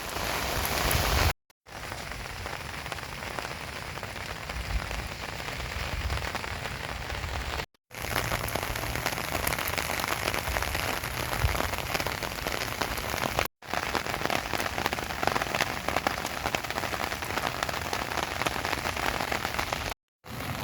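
Steady, fairly heavy rain falling, a dense patter of countless drops on surfaces. It is broken four times by a split-second dropout to silence.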